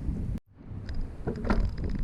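Wind rushing over the microphone of a camera riding on a moving bicycle, mixed with road noise and small rattles. The sound cuts out almost completely for a moment about half a second in, then comes back.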